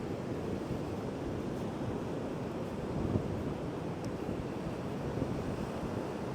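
Ocean surf breaking and rushing on the beach under strong wind, with wind buffeting the microphone in a steady low rumble.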